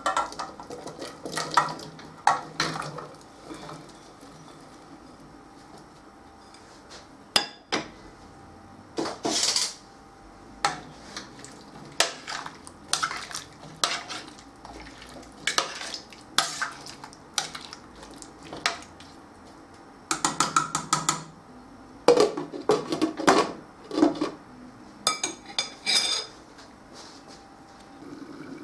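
Kitchen clatter: dishes, pots and cutlery knocked and clinked together while cooking, in scattered single clinks with runs of rapid clinking about two-thirds of the way through.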